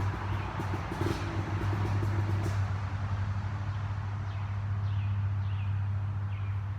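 ATV engine running at a steady idle, a low even hum; a rattling layer over it drops away about two and a half seconds in. Birds chirp several times in the second half.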